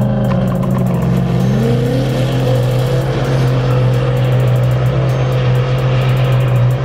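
Ford Mustang launching from the drag strip start line about a second and a half in, its engine note rising sharply and then climbing on with short dips at the gear changes as it pulls away down the track, over a steady low drone.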